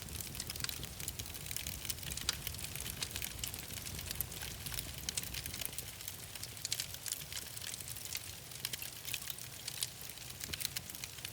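Wood fire burning in a fireplace, with irregular sharp crackles and pops over a low steady rumble.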